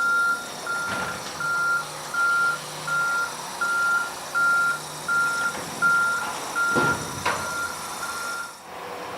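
A truck's reversing alarm beeping steadily, about one and a half beeps a second, until it stops near the end, over the truck's running noise. A low thud sounds about seven seconds in.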